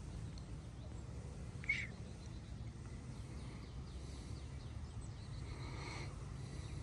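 Faint outdoor ambience: a low steady rumble under scattered faint bird chirps, with one clearer short chirp about two seconds in.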